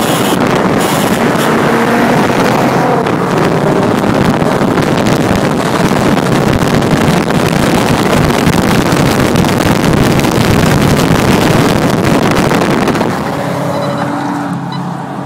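Car engine pulling hard at full throttle, heard from inside the cabin with heavy wind and road noise. About 13 seconds in the engine eases off and settles to a steadier, quieter run.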